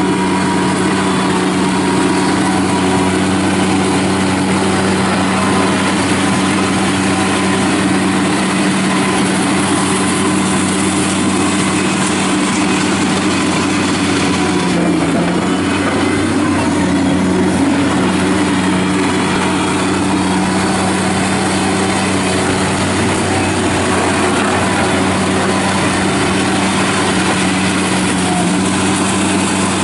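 Kubota diesel engine of a 2005 Bobcat MT52 mini track loader running steadily, with a brief dip in engine speed about halfway through.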